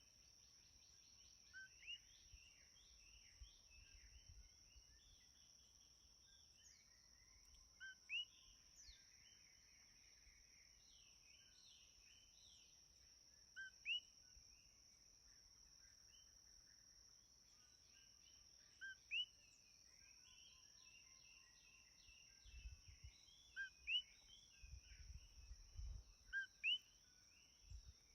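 Songbirds chirping softly at dusk over a steady high-pitched insect drone. One bird repeats a short two-note call every few seconds above the quieter chirping. A faint low rumble comes in near the end.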